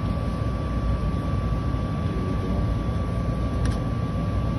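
Steady low rumble and hiss of rooftop background noise, with a thin steady whine throughout and one small click near the end.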